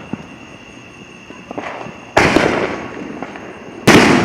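Two loud firework booms about a second and a half apart, the second louder, each dying away in a rumble, with a few small scattered pops before them.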